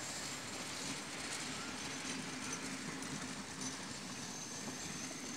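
Diesel-hauled passenger train running past and away, its carriage wheels rolling along the rails with a steady rumble.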